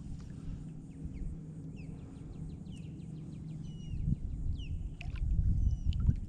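Birds chirping with many quick, short calls over a steady low drone. A low wind rumble on the microphone grows louder about four seconds in.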